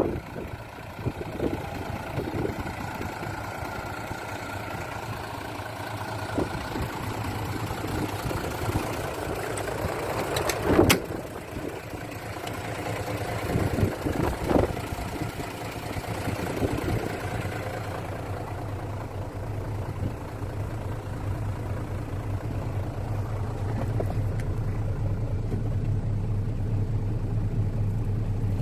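Mitsubishi Fuso Fighter truck's 6D17 six-cylinder diesel engine idling, with a sharp knock about eleven seconds in and a few softer ones a few seconds later. In the second half the idle settles into a steadier, stronger low hum.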